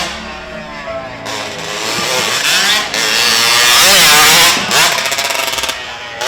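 Motorcycle engine revving up and down, loudest about four seconds in, with a rapid firing rattle shortly after.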